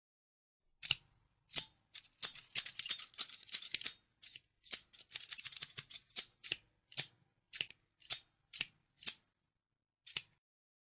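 Scissors snipping in crisp, sharp snips. There are two quick runs of rapid snips in the first half, then single snips roughly every half second, stopping shortly before the end.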